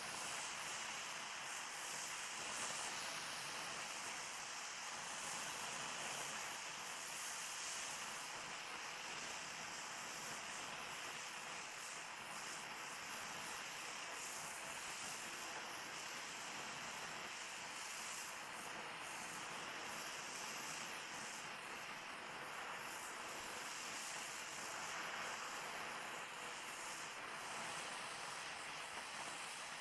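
Steady hiss of an oxyacetylene gas welding torch flame.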